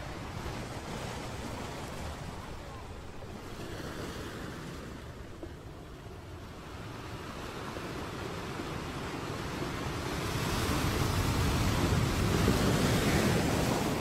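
Wind buffeting an outdoor webcam microphone, a rough rushing noise that builds into a stronger gust about ten seconds in and eases off near the end.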